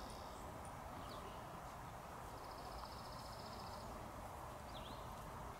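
Outdoor ambience with a steady background hiss and small birds calling: single high chirps, and a rapid high trill lasting about a second, starting about two and a half seconds in.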